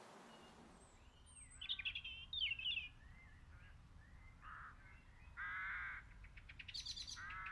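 Faint birds calling: short chirps early on, then harsh caw-like calls around the middle and again near the end, with a quick run of clicks between them.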